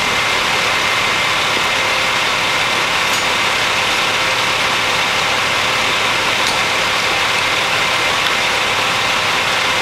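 Steady engine idling noise with a constant faint hum, unchanging throughout.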